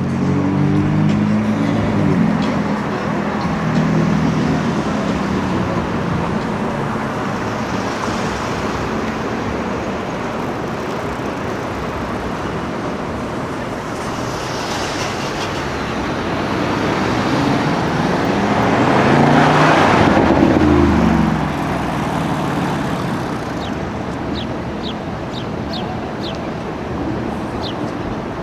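Street traffic with performance-car engines. An engine revs past at the start, then a louder car passes about two-thirds of the way through, its engine note rising and then falling away. A few short high ticks come near the end.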